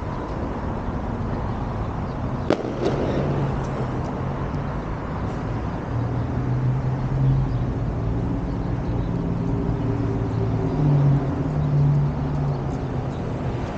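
A motor vehicle's engine hums low and steady over a constant rush of street noise, growing louder near the end as it passes close. A single sharp click sounds about two and a half seconds in.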